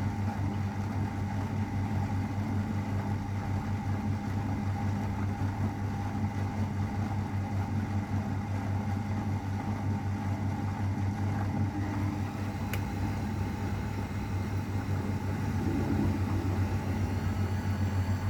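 A 32-year-old AEG Öko_Lavamat 693 washing machine running a 60 °C wash: a steady low motor hum, with a single sharp click about 13 seconds in.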